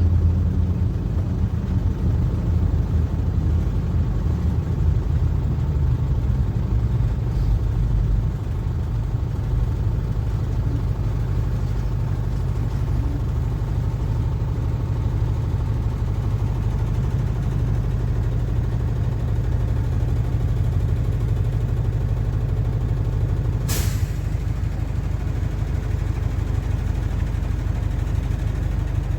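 PAZ-4234-05 bus's diesel engine running in motion, a steady low drone, a little heavier for the first eight seconds or so. About 24 seconds in comes one short, sharp hiss of air, typical of the bus's air brakes.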